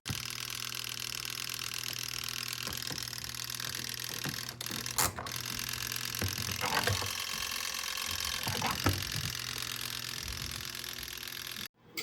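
Portable twin-tub washing machine running, a steady motor hum with a hiss over it and a few short knocks.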